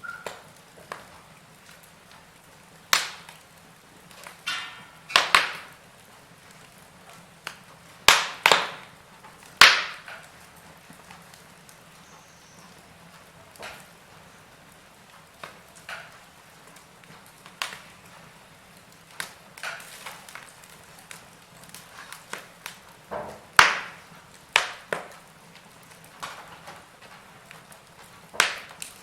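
Wood fire in a fireplace crackling, with irregular sharp pops over a faint steady hiss. The loudest pops come in a cluster about a third of the way in, and there is another strong pop a little past the middle of the stretch.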